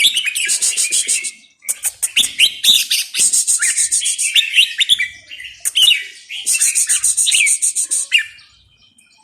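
A caged songbird singing loud phrases in three bouts, each a fast buzzy rattle over quick sliding whistled notes, with brief pauses between them and a falling-silent spell near the end.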